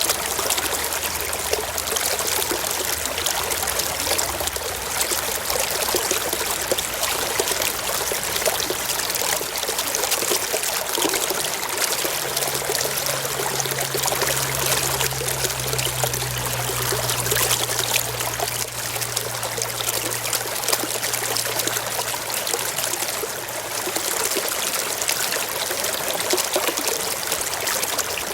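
Forest stream flowing steadily, a continuous rush and trickle of water. A faint low hum rises and fades in the middle.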